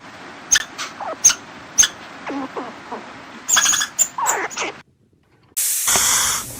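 An animal's short squeaking calls, several in a row, some falling in pitch, the loudest a cluster about halfway through. After a brief break, about a second of steady hiss-like noise.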